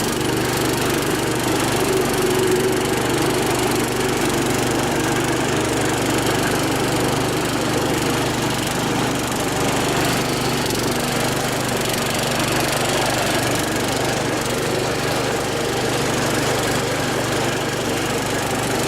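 Modded lawn tractor's gasoline engine running steadily as the tractor is driven off-road.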